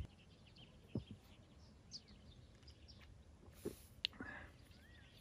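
Quiet ambience with faint, scattered bird chirps and a handful of soft clicks and taps.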